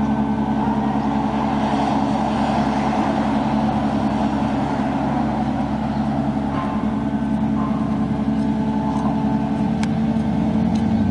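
Honda VFR750's V4 engine running at a steady, even pitch, with no revving.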